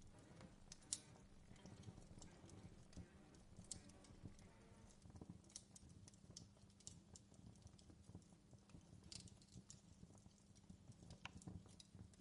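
Wood campfire crackling quietly: irregular small pops and snaps over a low steady rumble, with one sharper pop about a second in.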